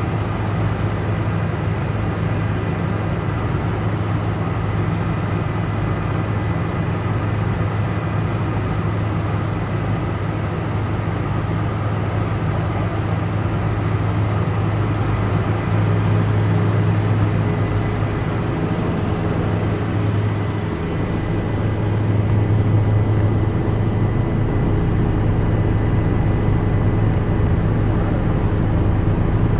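Helicopter cabin interior: the steady drone of the engine and rotor, a constant low hum with a thin, steady high whine above it. The level swells slightly about halfway through and again later on.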